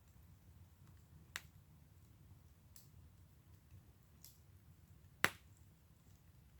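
Wood fire in a fire pit crackling faintly, with a few sharp pops: a loud one about a second and a half in and the loudest about five seconds in, with two fainter ones between.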